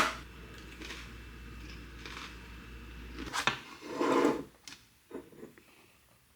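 Knocks, clicks and rustles of things being handled in a kitchen. A sharp click comes at the start, a low hum stops about three seconds in, and a short run of light knocks follows.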